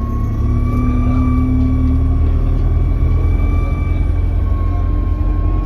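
Alexander Dennis Enviro200 bus engine running under way, a deep rumble with a steady high turbo whistle over it, heard from inside the bus. The whistle is the sign of a turbo leak.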